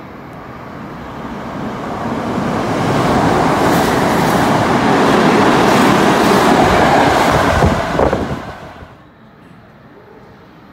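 Sanyo Electric Railway 5000 series train running through the station at speed: a rush of wheels on rail that swells over the first few seconds, stays loud with a few wheel clacks near the end, and cuts off suddenly about nine seconds in.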